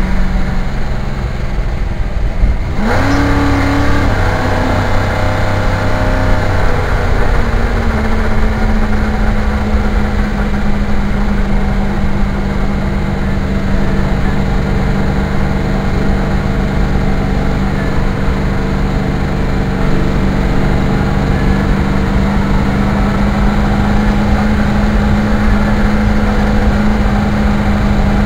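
Car engine under way while driving: it revs up sharply about three seconds in, eases back down over the next few seconds, then holds a steady pitch at cruise.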